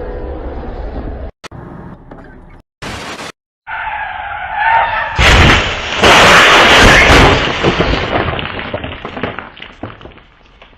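Car tyres screeching in a skid, then a loud crash about five seconds in, its noise fading away over the next few seconds.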